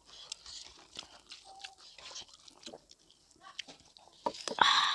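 Close-up wet chewing and lip smacking of a person eating pork fat and vegetables, with scattered small clicks. A louder, noisier mouth sound comes near the end.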